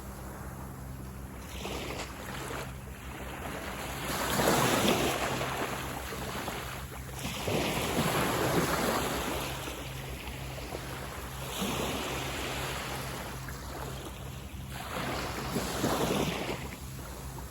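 Sea waves breaking and washing up a sand beach, a new surge every three to four seconds, the loudest about four seconds in.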